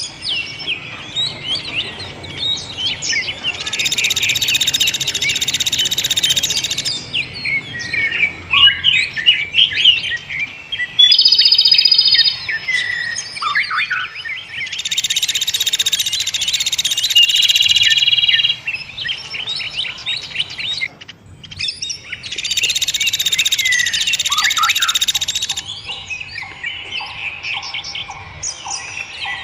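Dense, overlapping chirps and calls from several songbirds. Three long, fast buzzing trills stand out, each lasting about three to four seconds.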